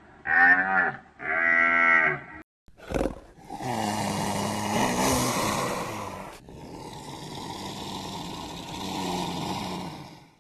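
An animal calling twice in quick succession, two loud drawn-out calls, followed by a click and several seconds of rough, noisy sound that shifts abruptly about six seconds in.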